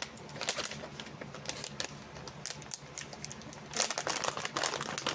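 Plastic snack package being handled and opened: an irregular run of sharp crinkles and clicks, thickening into a denser crackle about four seconds in.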